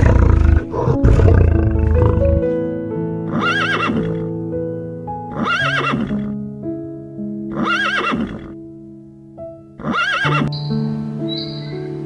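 A lion's deep roar for the first two seconds or so, then a horse neighing four times, evenly spaced about two seconds apart, each neigh rising and falling in pitch, over soft piano music.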